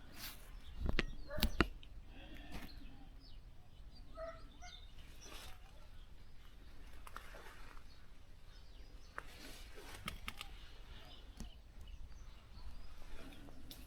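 A few sharp knocks, then faint scattered bird calls over quiet outdoor background noise.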